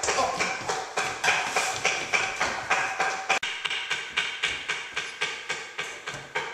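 Rapid, steady pounding on a door, about three blows a second.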